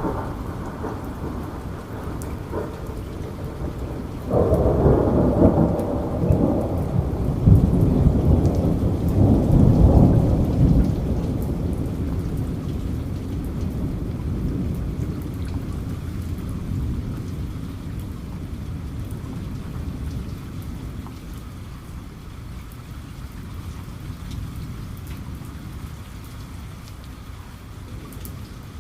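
Steady rain falling, with a clap of thunder about four seconds in that rumbles loudly for several seconds and then slowly dies away.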